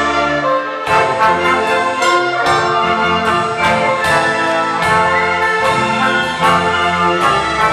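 Symphony orchestra playing, with brass, trumpets and trombones, prominent over the strings. The notes are sharply attacked in a steady pulse.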